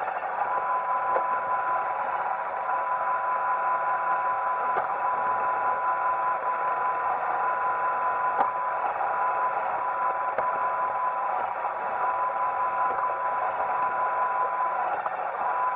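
Roomba 880 robot vacuum running: a steady whirring hum of its motors and brushes with a constant high whine, broken by a few sharp clicks.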